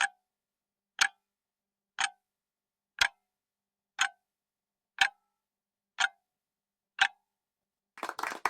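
Quiz countdown timer sound effect ticking once a second, eight clock-like ticks with silence between. Near the end a burst of applause-like clapping cuts in as the time runs out.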